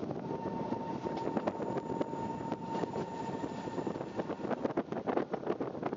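Metre-gauge electric train of the Centovalli Railway running along the line, heard from aboard: a steady rumble of wheels on rail with frequent clicks and knocks over the track, and a steady high whine through about the first half.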